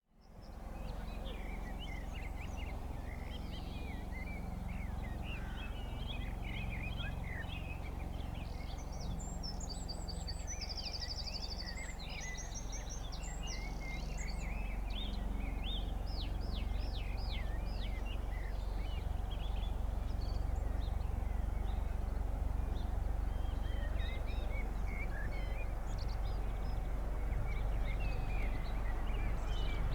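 Small birds singing, with many quick chirps and trills, over a steady low rumble that grows a little louder in the second half.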